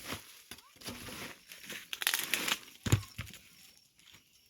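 Boots full of water squelching as he steps, a few short wet squishes that sound like farting. The water inside is sweat.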